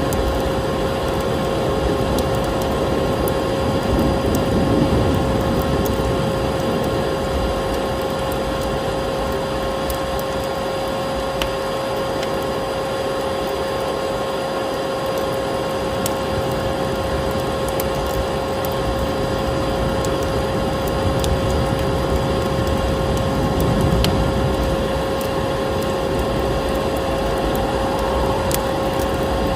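Vacuum cleaner running steadily with a constant hum, mixed with the scattered crackles of a wood fire burning in a fireplace.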